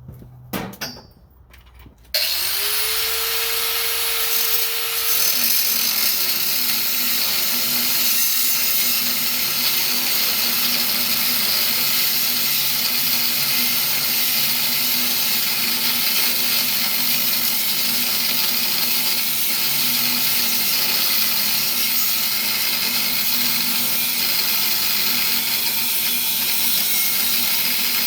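Power tool switched on about two seconds in, its motor whine rising as it spins up, then running steadily with a loud, even hiss.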